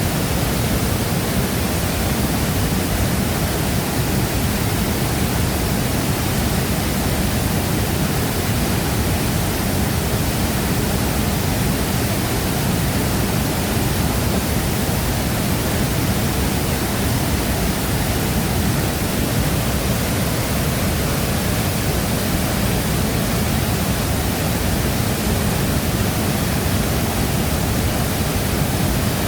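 Shifen Waterfall pouring steadily: a dense, unbroken rush of falling water, heaviest in the low range.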